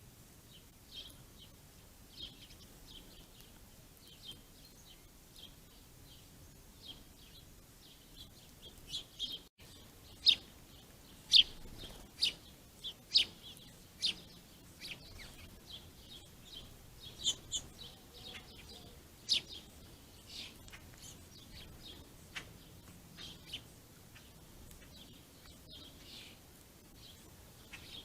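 Small songbirds giving short, sharp chirps, one after another, with a louder flurry of chirps near the middle.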